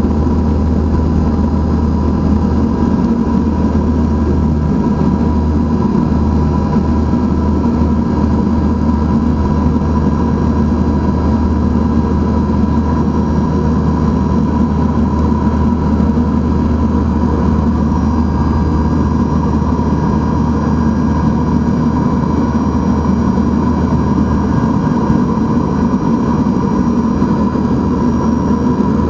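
NAMC YS-11's twin Rolls-Royce Dart turboprop engines running steadily: a loud, even low rumble with a constant high whine on top.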